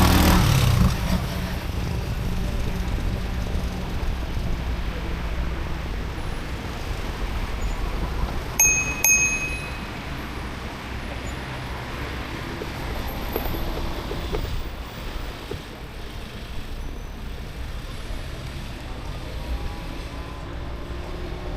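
Steady wind and road rumble from riding an e-bike, with a bicycle bell rung twice in quick succession near the middle, each strike leaving a brief clear ring.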